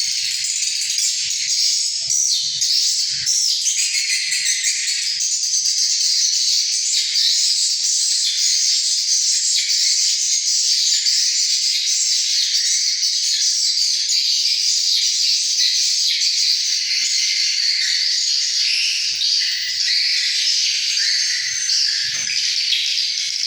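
Swiftlets twittering in a dense, unbroken chorus of high chirps.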